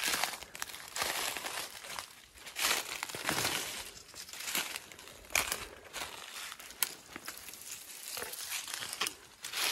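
Footsteps crunching and rustling through dry leaves and brush in irregular steps, with a few sharp cracks.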